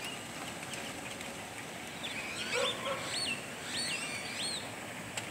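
Birds calling: a quick series of whistled notes that sweep up and down, about two seconds in and lasting a couple of seconds, over a steady outdoor background hum.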